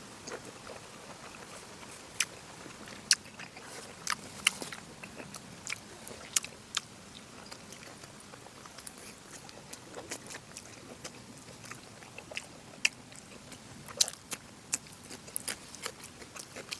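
Close-miked eating sounds of a person chewing braised pork: irregular wet mouth clicks and smacks, a few much sharper than the rest.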